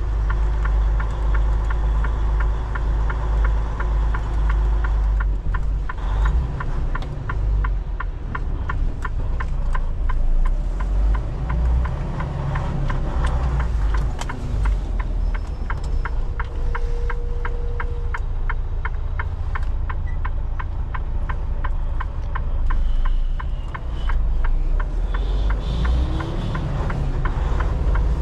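Semi-truck engine and road noise heard from inside the cab while driving: a steady low rumble that rises and falls a little.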